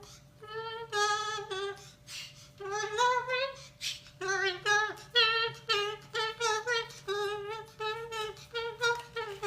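White parrot singing a tune in a high, wavering voice: a string of short sung notes in phrases.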